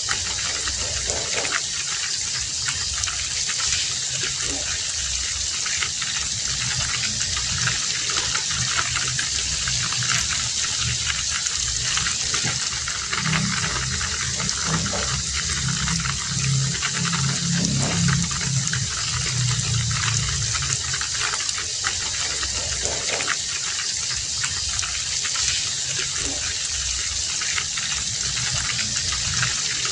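Heavy rain falling as a steady, even hiss. A low rumble swells in the middle and fades a few seconds later.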